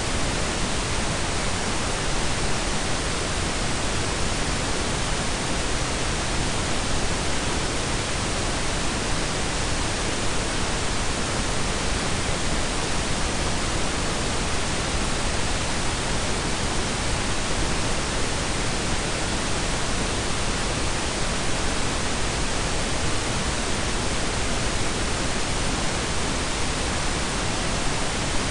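Steady, unchanging pink and brown noise blended together: an even hiss spread across low and high pitches, with a deep rumbling low end.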